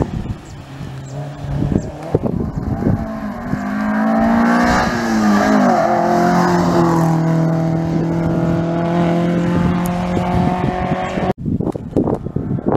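Small classic rally car's engine pulling hard up the stage: the revs climb, drop once at a gear change, then hold steady as the car comes up the road. The sound cuts off abruptly near the end.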